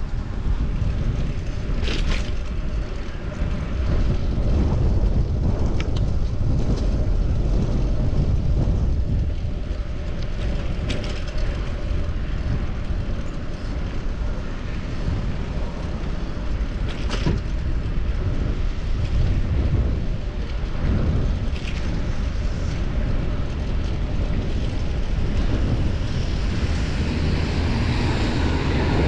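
Wind rushing over the microphone while cycling along a city street, with road traffic rumbling. A few sharp clicks break through, and the noise grows louder near the end.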